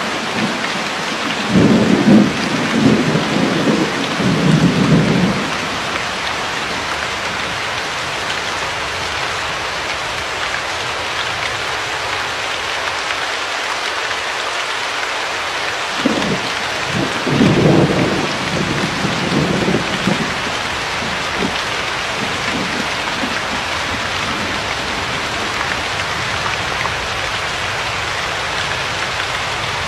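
Steady heavy rain with two rolls of thunder, one a few seconds in and another just past the middle, each rumbling for about four seconds.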